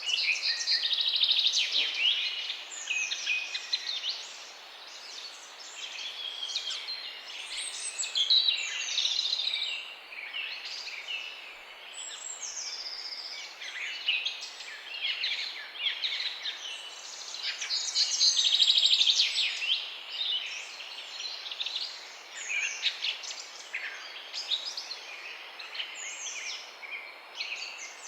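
Morning chorus of several songbirds singing and chirping at once, with rapid trills and quick downward-sliding notes overlapping throughout, over a steady background hiss.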